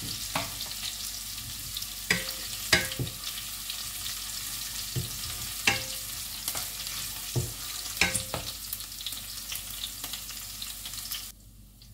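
Grated ginger, cumin and coriander sizzling in hot oil in a metal pan, with a wooden spatula knocking and scraping against the pan every second or two as it stirs; the ginger is being fried until it just colours. The sizzle cuts off suddenly near the end.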